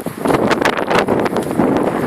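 Strong wind buffeting the microphone, a loud, gusty rumble and rush with constant small flutters.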